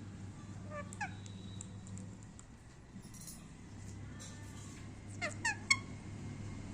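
Indian ringneck parakeet making short pitched calls: a pair about a second in, then three quick calls near the end, the last the loudest.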